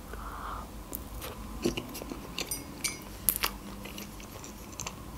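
Close-miked chewing of a mouthful of soft food, with irregular small wet mouth clicks and smacks.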